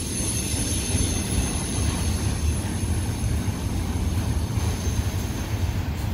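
BNSF freight train climbing the mountain grade: a steady, heavy low rumble, with a thin high steady whine over it that fades out near the end.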